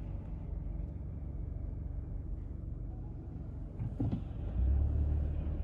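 Low, steady rumble of a car driving, heard from inside the cabin. A short knock comes about four seconds in, and the rumble grows louder after it.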